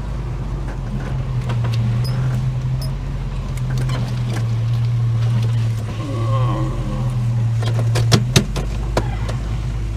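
Holden HK's engine running steadily, heard from inside the car's cabin, with a few sharp clicks about eight seconds in.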